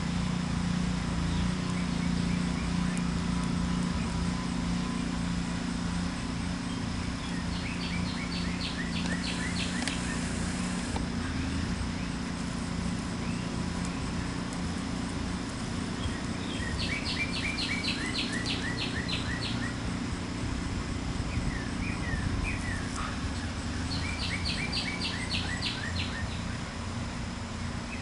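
A songbird sings three short phrases of quickly repeated high notes, each about two to three seconds long, over a steady low rumble.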